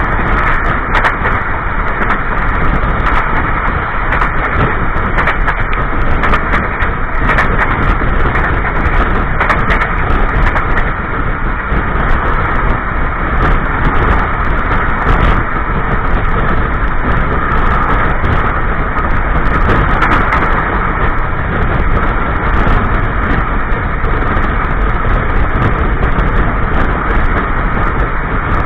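KA Serayu passenger train running along the track, heard from inside the carriage's toilet compartment: steady loud wheel-on-rail running noise with frequent sharp clicks and rattles.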